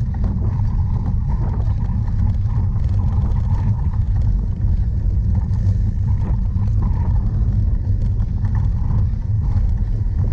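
Wind buffeting a bike-mounted camera's microphone while riding a cyclocross course, a steady low rumble with small clicks and rattles from the bicycle over rough ground.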